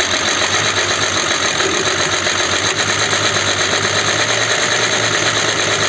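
Audi Q7's 3.6 FSI VR6 engine running steadily moments after its first start following a rebuild, with a busy rattle from the hydraulic lifters, which were drained and have not yet filled with oil pressure.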